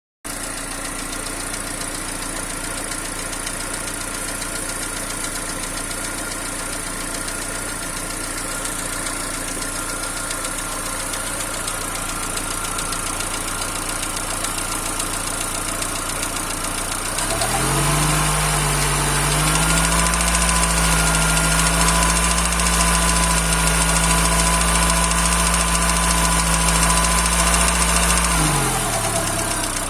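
Cold Peugeot/Citroën TU5JP4 1.6-litre 16-valve four-cylinder petrol engine idling with a knock, the cold-engine knock that the owner says disappears once the engine is warm. At about 17 s a louder, lower running sound sweeps in, holds steady for about eleven seconds, then sweeps back down.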